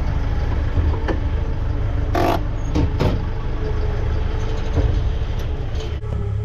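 Tractor engine running steadily at low speed while reversing with a manure spreader, with a few sharp metallic knocks about one, two and three seconds in.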